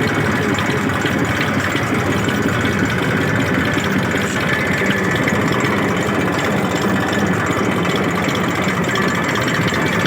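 Old tractor engine running steadily at low revs.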